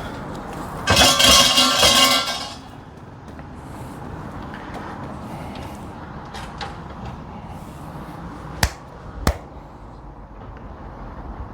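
A shrine bell (suzu) is shaken by its rope, a jangling metallic rattle that lasts about a second and a half. Several seconds later come two sharp hand claps about half a second apart: the bell-ringing and clapping of prayer at a Shinto shrine.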